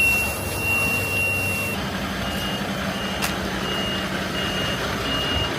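A continuous high-pitched tone that cuts off abruptly, followed by a vehicle's reversing alarm beeping about twice a second over a running diesel-type engine.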